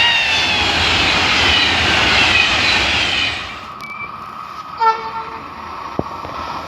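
Train passing at speed: loud rushing with high tones falling in pitch, which dies away after about three seconds. About five seconds in comes a short train horn blast, then a single click.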